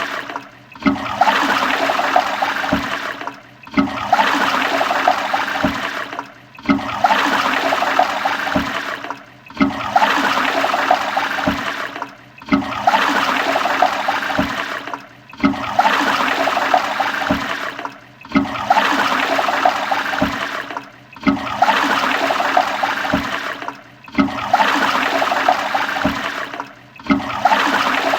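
Toilet flushing, a rushing, gurgling surge of water. It is looped so that it restarts about every three seconds, with a brief dip between repeats.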